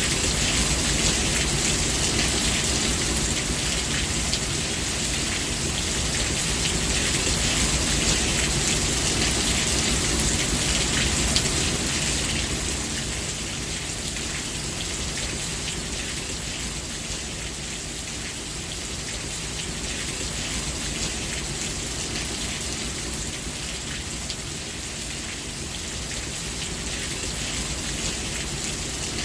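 Steady rain falling, a dense even hiss of many drops, easing slightly about halfway through.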